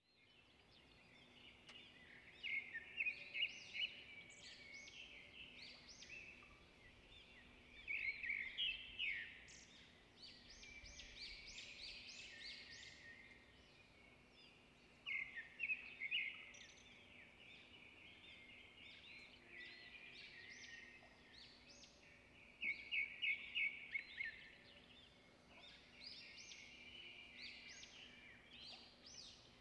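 Small songbirds chirping and singing in quick runs of high notes, with rapid trills every several seconds. A faint steady hum sits underneath.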